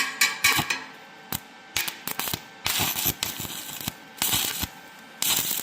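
Stick-welding arc from an ESAB 180i Pro inverter welder burning a 2.5 mm basic electrode at around 55 amps on thin steel box section, crackling and hissing in irregular bursts that stop and start as the arc is struck and run.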